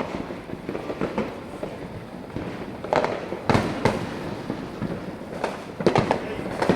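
Fireworks going off: scattered sharp bangs and pops over a steady crackle. The loudest bangs come about three and a half seconds in and in a quick cluster near the end.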